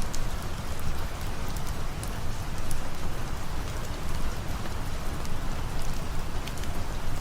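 Steady rain ambience: a dense, even hiss with a deep rumble underneath and scattered sharp ticks of individual drops.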